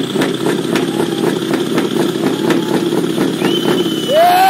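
Heavy truck diesel engine idling with a ticking rumble; about four seconds in a horn sounds, its pitch sliding up into a loud steady tone.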